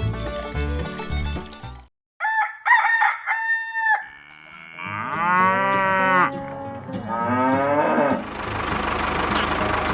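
Background music breaks off, then a rooster crows in three short bursts and cattle moo twice, the first call falling in pitch and the second rising. A steady low hum follows.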